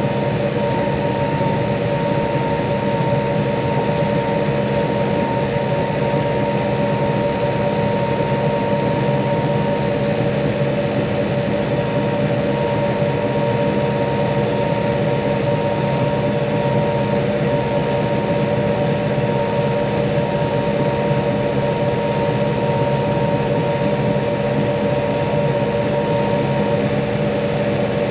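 Tractor engine running steadily at working revs while muck spreading, with a constant whine from the drive.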